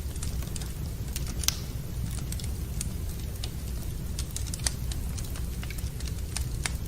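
Wood fire in a fireplace crackling, with irregular sharp snaps and two louder pops about a second and a half and nearly five seconds in, over a steady low rumble.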